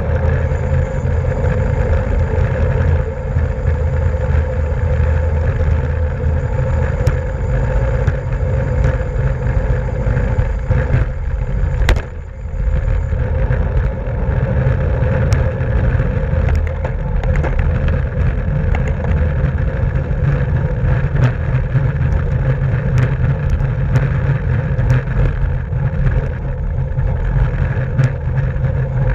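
Steady wind rush and rumble on the microphone of a camera riding along on a racing bicycle, with a steady hum underneath and scattered light clicks. A sharp click about twelve seconds in is followed by a brief drop in the noise.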